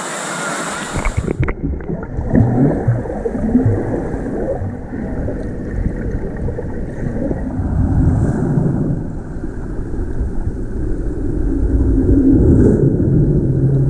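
Water and wind rumbling and buffeting loudly against the microphone, muffled, with the high sounds dropping out about a second and a half in.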